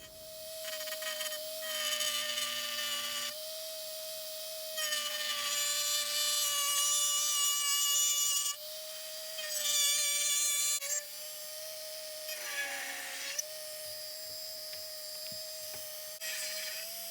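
Power drill running at high speed and cutting holes through the motorcycle's plastic tail fairing. It whines steadily, louder and quieter in stretches as it bites, and the pitch sags briefly about twelve seconds in under load.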